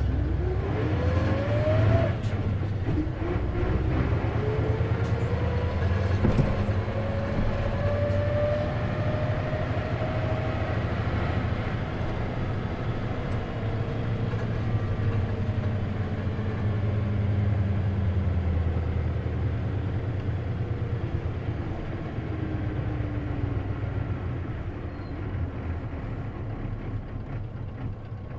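Isuzu KC-LV380N city bus heard from inside, pulling away: the engine revs up with a rising whine, a gear change about two seconds in, then a slower climb in the next gear before it eases off and the whine slowly falls. The whine is the unusual running noise this bus makes, which its recorder takes for a symptom of the manual-gearbox bus.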